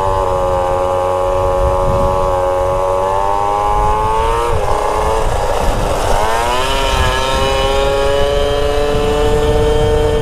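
Small motorbike engine running under way, its pitch climbing and then holding steady. About four and a half seconds in the pitch breaks and dips briefly, then climbs again and holds.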